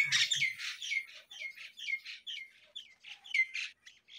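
A small bird chirping over and over: short high notes, each sliding downward, about four a second.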